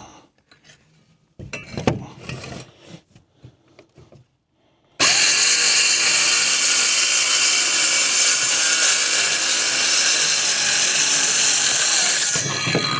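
A power saw cutting a small piece to size. It starts suddenly about five seconds in, runs steadily and loudly for about seven seconds, and stops near the end. Before it there are a few quiet knocks of handling.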